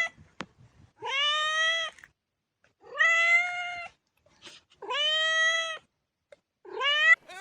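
A cat meowing four times, each a drawn-out call of about a second with a rising start, the last one shorter.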